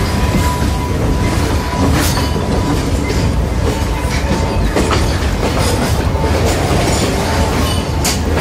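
Passenger coach of a Kelani Valley line train rolling into a station, heard from its open doorway: a steady rumble with scattered clicks of the wheels over rail joints.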